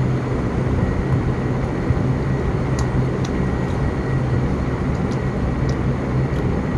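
Steady low engine rumble and hum, like a vehicle running, with a few faint clicks.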